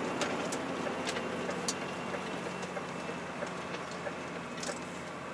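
DAF 105 truck's diesel engine running steadily at low revs as the truck creeps away on glazed ice with hardly any wheelspin, with scattered light clicks.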